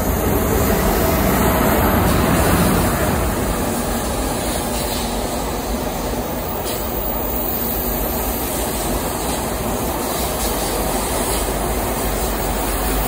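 ICE 1 high-speed train passing through a station at speed without stopping, heard inside an enclosed underground station: a loud, steady rush of wheel and air noise. It swells in the first second, is loudest about two to three seconds in, then holds steady as the carriages go by.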